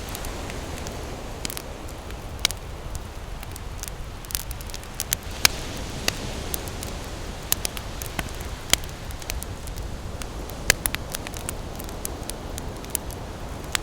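Wood campfire crackling, with irregular sharp pops, a few of them much louder than the rest, over a steady rush of ocean surf.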